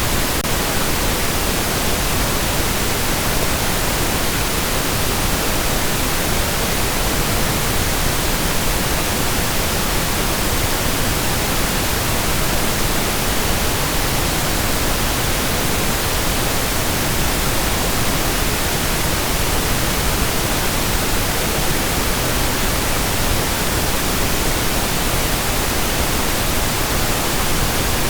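Steady, unchanging synthetic pink noise: an even hiss spread across all pitches, with no tones or breaks.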